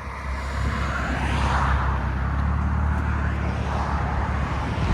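Exhaust of a Lexus IS 250's 2.5-litre V6 running through Valvetronic valved mufflers with the valves closed: a steady, low, fairly quiet exhaust note.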